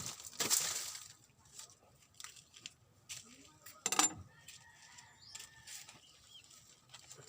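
Dry, termite-eaten wood and old dried palm-leaf thatch being pulled apart and broken: a crunching crackle in the first second, scattered small snaps, and one sharp crack about four seconds in.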